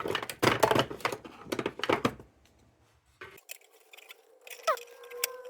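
Rapid clicking and scraping of the sheet-metal parts of a tubular lantern being worked loose by hand, then a pause with a few light knocks and, near the end, a single ringing metal tone.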